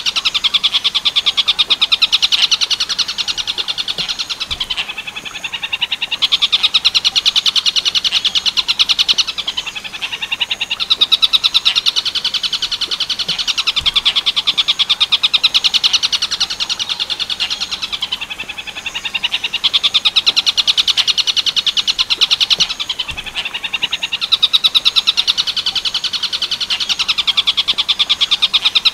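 Tengkek buto kingfisher calling in a fast, harsh, rattling trill. It comes in long phrases that dip briefly about every four to five seconds.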